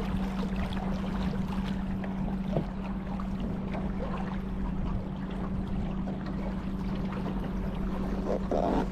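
Boat under way on the river: a steady low drone with wind buffeting the microphone and small splashes of water.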